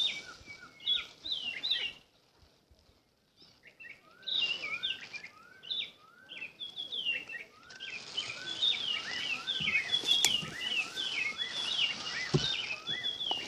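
Birds chirping: quick, repeated high chirps over a steady outdoor background, dropping out briefly about two seconds in, then resuming more densely. A single sharp click sounds about ten seconds in.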